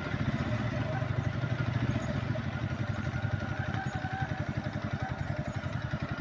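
ATV engine running at low speed with a fast, even pulsing beat and a faint whine above it.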